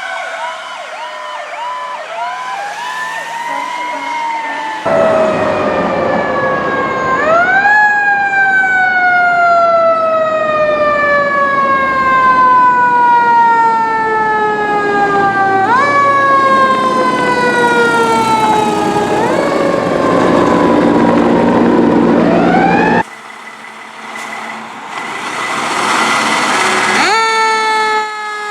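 Fire truck sirens sounding while responding. The siren pitch rises quickly, then falls slowly in long glides, again and again. There is a warbling stretch at the start, and truck noise underneath. The sound changes abruptly about five seconds in and again near the end.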